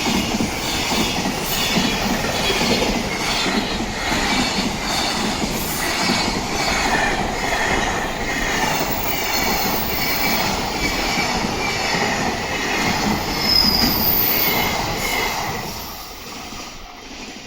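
Train passing close by on a sharp curve of the JR Kyoto Line, its wheels squealing against the rails over a steady rhythmic clatter, then fading away near the end.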